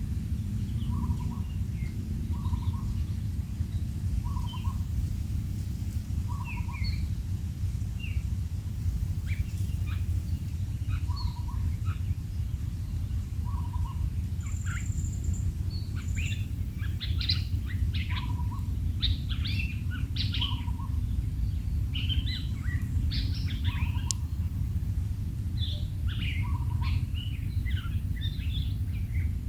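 Birds calling: a short, low call repeated every second or two, with many high chirps that grow busier about halfway through, over a steady low rumble.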